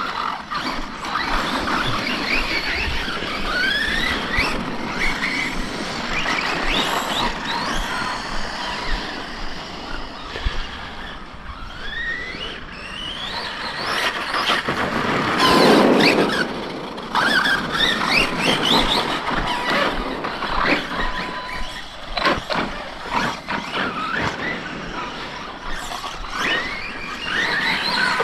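Electric RC stunt trucks running on dirt. Their motors whine up in pitch again and again as they accelerate, over a steady hiss of tyres on the ground, with a louder rush about halfway through.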